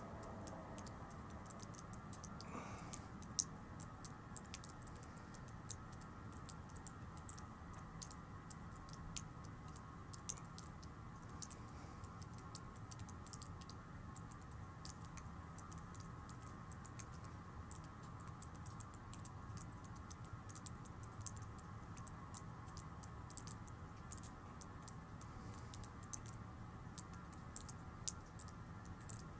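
A steady low rumbling drone of unknown origin, which the uploader likens to a plane, with many faint, irregular clicks scattered through it.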